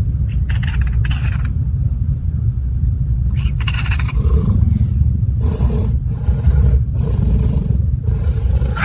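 Angry caracal hissing and growling over a steady low rumble. Two sharp hisses come about half a second and three and a half seconds in, then a run of pulsing growls.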